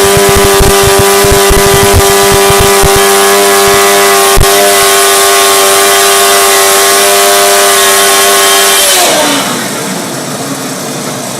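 Engine held at very high revs, giving a steady high-pitched drone with uneven low thumps in the first few seconds. About nine seconds in the revs fall away and the pitch drops.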